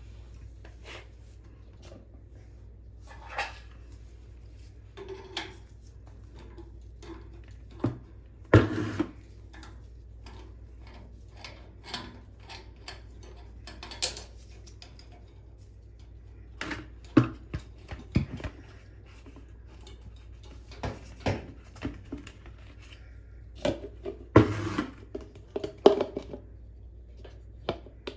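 Scattered clinks, knocks and scrapes of hard objects being handled, irregular and in clusters, over a steady low hum.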